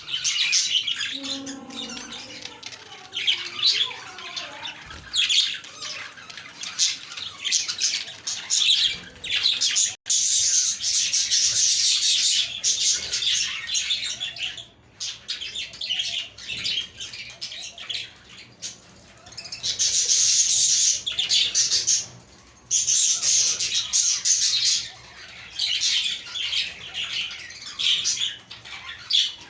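A flock of budgerigars chirping and warbling in a dense, high-pitched chatter that swells louder in several stretches.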